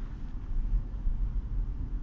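Steady low rumble of a 2020 Subaru Forester driving, road and engine noise heard inside the cabin; no distinct seat creak stands out.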